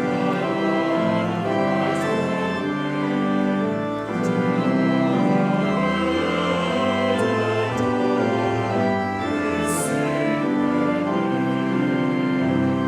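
Church organ playing a hymn in sustained chords that change every second or so.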